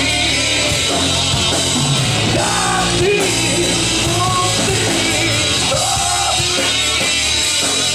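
A rock band playing live: a loud, dense, steady band sound with melodic lines over it.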